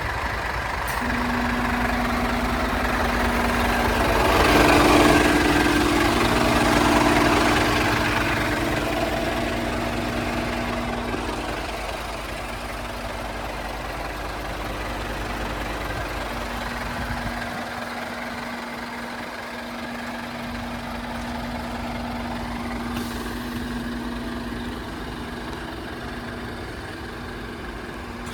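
Scania G500 truck's diesel engine idling, with a steady hum over a low rumble. It swells louder a few seconds in, then settles back to a quieter idle.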